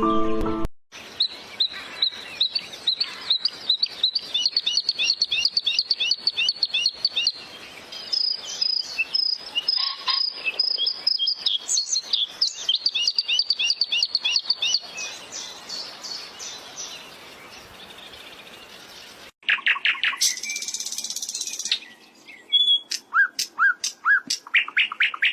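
Small birds chirping in long runs of quick, high-pitched repeated notes. About 19 seconds in the sound cuts off abruptly and a different set of bird chirps follows.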